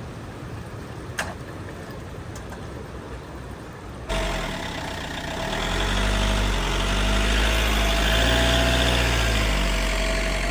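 A vehicle's engine running, with a steady whine over it and a hiss that grows louder about six seconds in. It starts abruptly about four seconds in, after a quieter stretch of low rushing noise with a single click about a second in.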